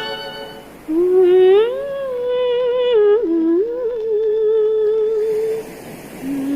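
A single voice humming a slow melody with a wavering vibrato, in two phrases, the second beginning near the end. The last notes of a strummed guitar die away at the very start.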